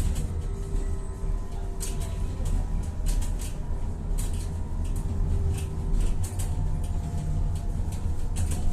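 Tatra-Yug K1M tram running, heard from on board: a deep steady rumble of wheels on the rails, with a few held whining tones and short clicks and rattles every second or so.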